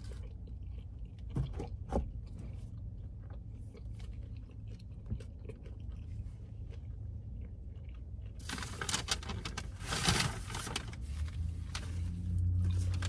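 Close-up chewing of Wendy's Baconator fries, with a few small clicks. About two-thirds of the way through, a paper bag crinkles loudly for a couple of seconds, and a low steady hum comes in near the end.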